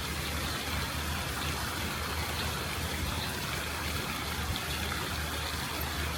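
Steady rushing water, an even continuous hiss with no breaks or swells.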